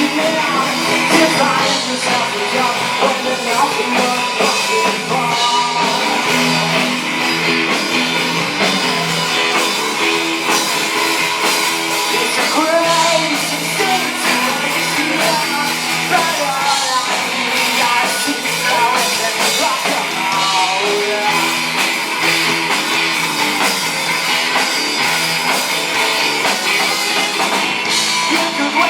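Live rock band playing a cover song: singing over electric guitars and a drum kit.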